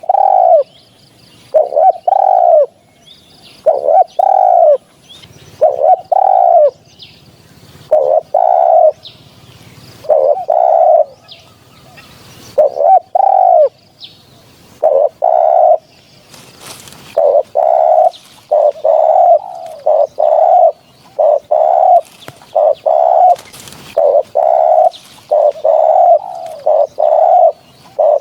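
Spotted dove cooing over and over in short phrases of two or three low coos, about one phrase every two seconds, coming closer together in the second half. Faint chirps from other birds sound between the phrases.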